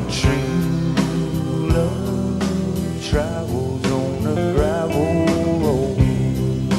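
Live band playing an instrumental break in a slow country-soul song, with drums, bass, keyboards and electric guitar. In the second half a lead line plays notes that bend up and down in pitch.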